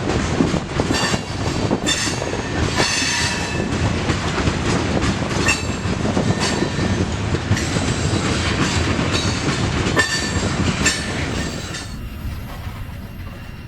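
Freight train cars rolling past slowly, the wheels clicking over the track with intermittent high-pitched wheel squeal; the sound drops away about twelve seconds in.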